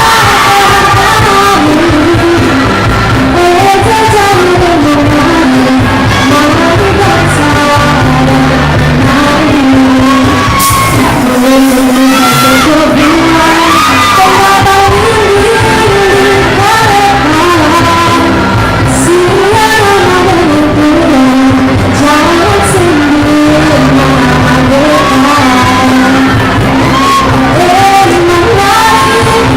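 A school music ensemble performing live: singing over instrumental accompaniment, as a loud recording of poor sound quality.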